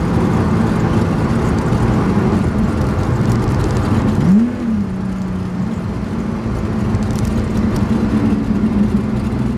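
Supercharged 3.5-litre V6 of a Lotus Exige S heard from inside the cabin, pulling steadily under way with road and tyre rumble. About four and a half seconds in, the engine note swoops up and back down, then it settles again to a steady pull, a little quieter.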